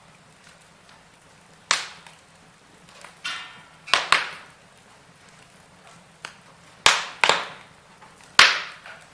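Wood fire in a fireplace crackling, with about seven sharp pops spaced irregularly through it, each cracking and fading quickly.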